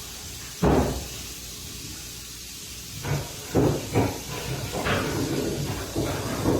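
A series of short, dull thumps or scrapes, about six of them, over a steady hiss.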